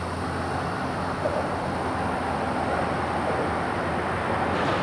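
Autorack freight cars rolling past on the track, a steady noise of steel wheels on rail.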